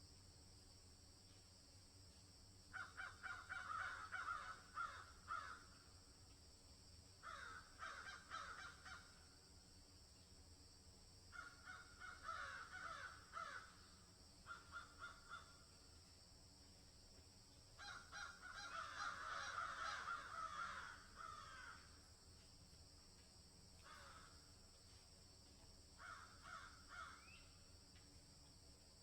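Harsh animal calls, likely birds, coming in repeated bursts of one to four seconds, each a quick run of rasping notes. Seven such groups are separated by short pauses, over a steady faint high hiss.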